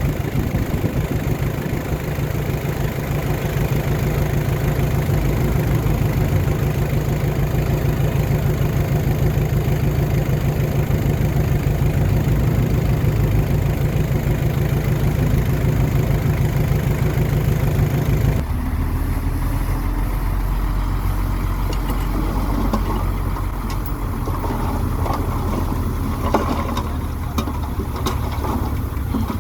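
Bulldozer diesel engine running steadily. About 18 seconds in the sound changes abruptly to a deeper engine drone with scattered metallic clanks.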